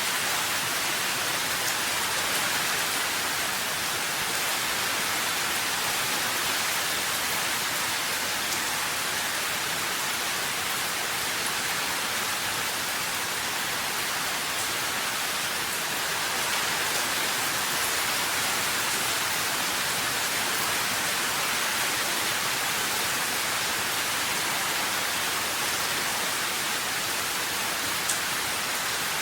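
Steady rain falling, an even hiss with occasional faint drop ticks and one small click near the end.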